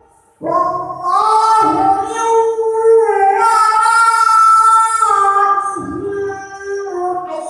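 A girl's voice chanting Qur'anic recitation in a melodic style, with long held, ornamented notes. It begins after a short breath pause.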